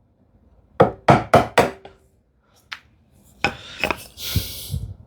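A chisel being struck into wood to chop down to a marked line: four quick blows about a second in, a light tap, two more blows, then a short scraping hiss near the end.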